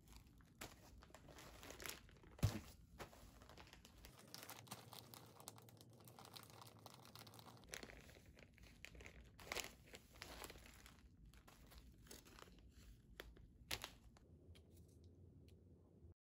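Faint rustling and crinkling, with scattered small clicks and one sharper knock about two and a half seconds in.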